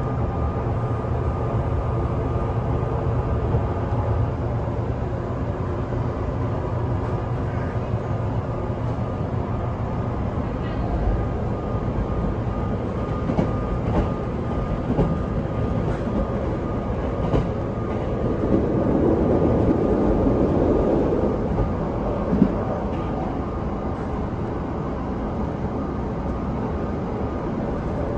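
Vista Car limited express train running, heard from inside the carriage: a steady rumble with faint humming tones. The noise swells briefly about 19 seconds in, and there is a single knock a little later.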